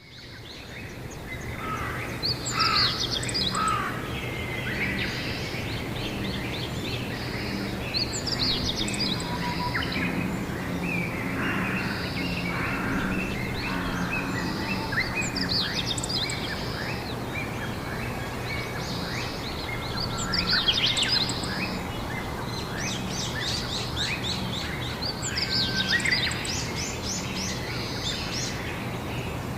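Several songbirds singing together, with one bird repeating a loud, high phrase every five or six seconds, over a steady low background hum. The sound fades back in over the first couple of seconds.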